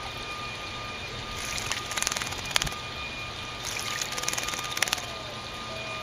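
A small bird splashing in a bird bath, fluttering its wings in the water in short bursts of rapid splashes: one burst about a second and a half in, a single splash a little later, and a longer flurry from about three and a half to five seconds in.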